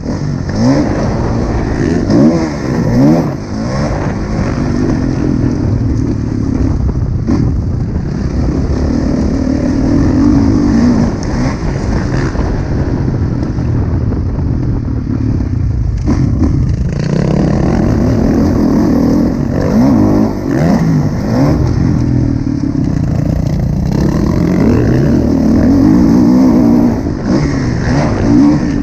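2016 Kawasaki KX450F motocross bike's single-cylinder four-stroke engine revving hard and falling back over and over, its pitch climbing and dropping as the throttle opens and closes through the corners and jumps.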